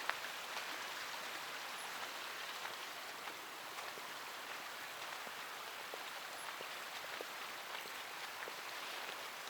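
Strong wind rushing through trees and grass, a steady hiss with faint scattered small ticks.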